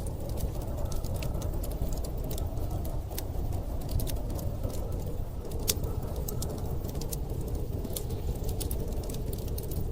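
Wood fire crackling, with frequent sharp snaps and pops, over a steady low rumble of storm wind.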